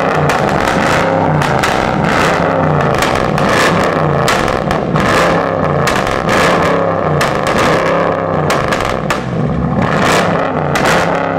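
Jeep Grand Cherokee Trackhawk's supercharged V8 running hard under throttle.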